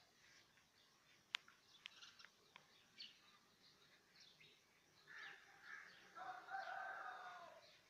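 Faint bird calls and chirps, with a sharp click a little over a second in and a longer call of about a second and a half around six seconds in.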